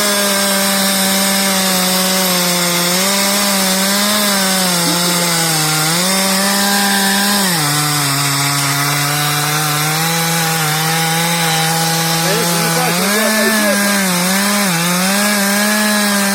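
Chainsaw running near full throttle while cutting into wood, its engine note dropping lower under load for about five seconds in the middle, then rising again.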